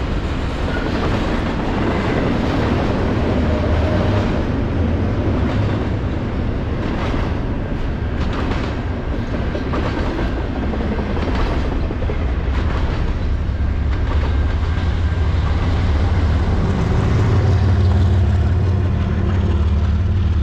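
A freight train passing close by: a steady rolling rumble with repeated clicking of wheels over rail joints, and a low engine drone that grows louder near the end.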